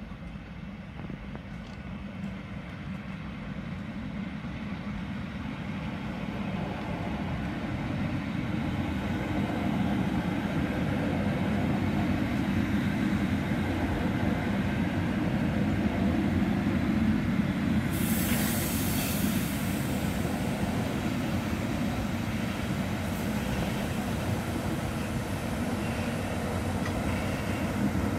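A passenger train of old coaches rolling past close by, the wheels on the rails growing louder over the first ten seconds and then holding steady, with a diesel shunting locomotive's engine running at the tail. A hiss lasting about two seconds comes about eighteen seconds in.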